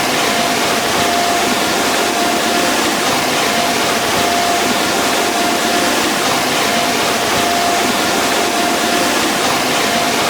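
Sonny's car wash tunnel equipment running: a steady, loud rush of noise with a constant high whine.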